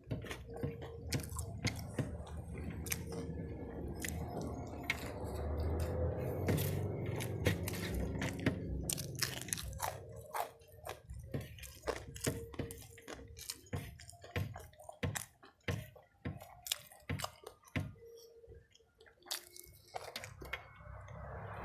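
Close-miked chewing and biting on crispy fried chicken and rice: a rapid stream of wet mouth clicks, smacks and crunches, densest in the first half. A faint steady hum comes and goes underneath.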